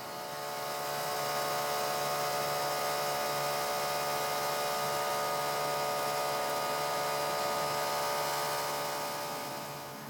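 A machine running steadily with a dense, even hum, fading in over the first second or so and fading out near the end.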